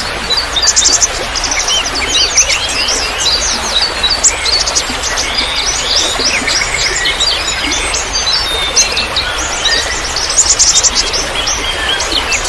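Many songbirds chirping and twittering together in a dense, overlapping chorus of quick high trills, over a steady trickle of water.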